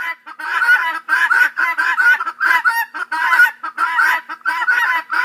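Guinea fowl calling: a rapid, harsh, continuous chatter of short repeated calls, several a second.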